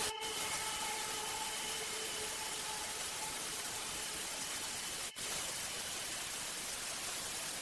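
Steady even hiss, with a few faint held tones fading out over the first three seconds. The sound cuts out briefly about five seconds in.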